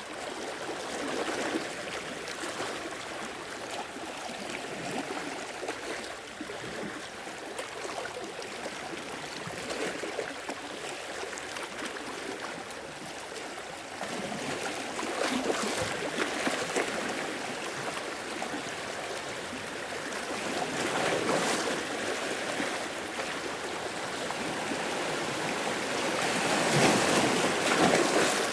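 Sea waves washing onto the shore and drawing back, each wash swelling and fading every several seconds, the loudest near the end.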